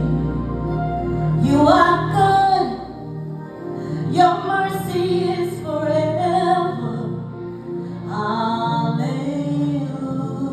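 Music: a slow gospel song, with a woman's voice singing three long phrases over a sustained accompaniment.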